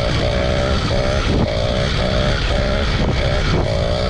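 Small motorbike engine running under way, its note rising and dipping again and again as the throttle is worked.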